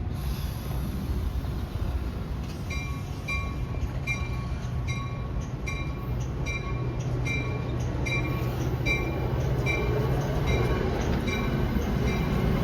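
A railroad bell starts ringing about three seconds in, evenly at about one and a half strikes a second, over the low rumble of an approaching train that grows louder near the end.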